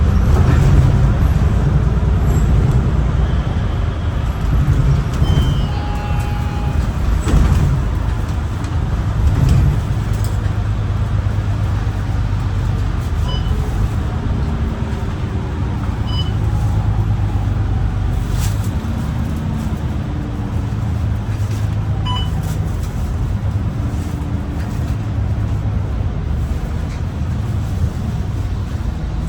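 MAN ND323F double-deck bus's Euro 6 diesel engine heard from inside the cabin, driven hard, its drone rising and falling in pitch through the gears over steady road and tyre noise. A few short high beeps sound partway through.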